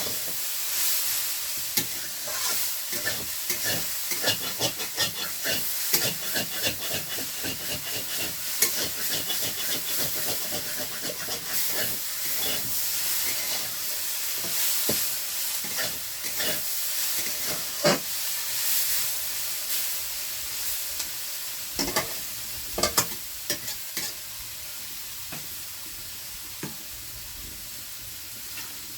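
Potatoes frying in hot oil in a pan, sizzling steadily while a spatula stirs them, with many sharp scrapes and clacks of the spatula against the pan. The sizzle eases a little near the end.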